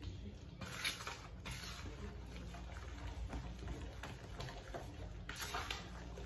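Banana-oat cake batter being stirred by hand in a bowl: soft, irregular wet scraping and squelching, with a brighter scrape about a second in and another near the end.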